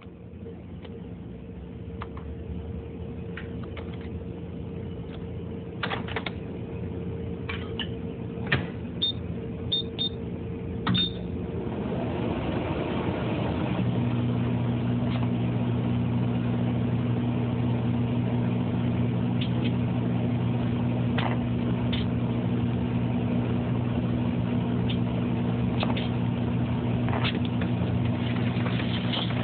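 Microwave oven running with a steady electrical hum that grows louder and steps up about halfway through. A run of sharp pops and crackles sounds over it, mostly in the first half.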